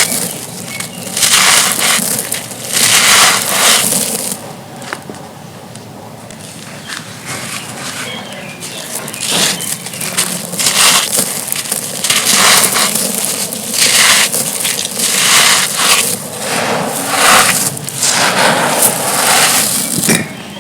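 Soft, dusty, stone-like thin slabs being crushed and crumbled: a run of gritty crunches, about one a second, with a quieter spell of fine crumbling about five seconds in.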